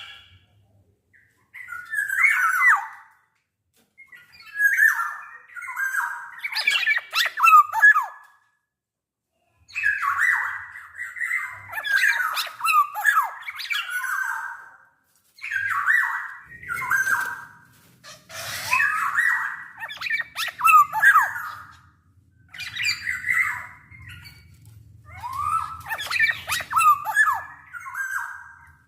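Black-naped oriole (kepodang) singing persistently: bursts of loud whistled and harsh notes, each phrase lasting one to three seconds, with short pauses between.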